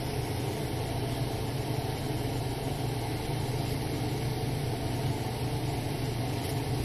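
Salmon fillets frying in oil on a flat grill: a steady sizzle over a steady low hum.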